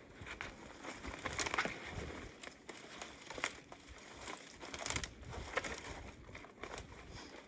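Footsteps crunching through deep snow, a few uneven crunches a second, the loudest about a second and a half in and around five seconds in.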